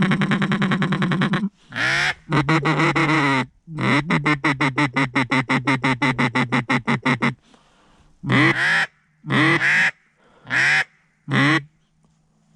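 A duck call blown by a hunter: long runs of rapid quacks, about nine a second, then four single quacks spaced about a second apart, calling to incoming ducks.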